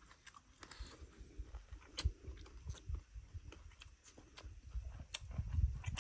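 A man chewing a mouthful of snake and bamboo-shoot stew, with scattered sharp mouth clicks. Low thumps build in the last second or so.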